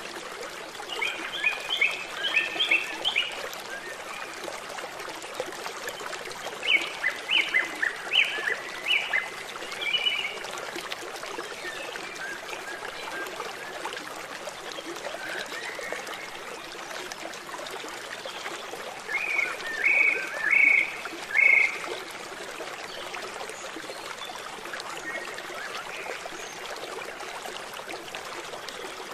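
Running water with a steady rushing sound throughout. Over it, an animal calls in three bursts of short repeated notes, near the start, about seven seconds in and about twenty seconds in.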